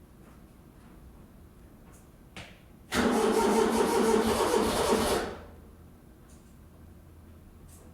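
Ford 1210 compact tractor's three-cylinder diesel being cranked by its starter motor, about three seconds in, for roughly two and a half seconds before the cranking stops. The battery had been run dead and recharged.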